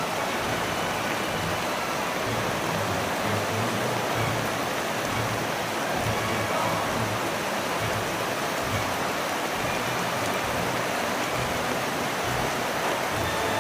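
Heavy rain pouring steadily, mixed with the rush of floodwater running along the street.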